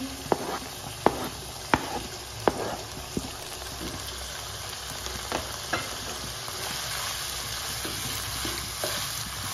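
Diced chicken and onion sizzling in ghee in a non-stick wok over a high flame, while a wooden spatula stirs and knocks against the pan, with sharp knocks most often in the first three seconds.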